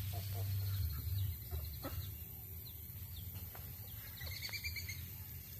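Young poultry peeping in short, scattered chirps, with one longer call about four and a half seconds in. A low rumble runs underneath, strongest in the first second or so.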